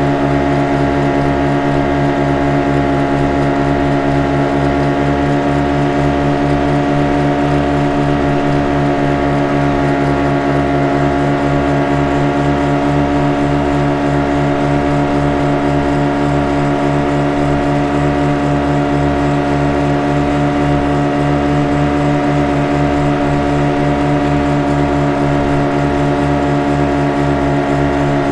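Motorboat engine running at a constant speed: a steady, unchanging drone with a fast low pulse underneath.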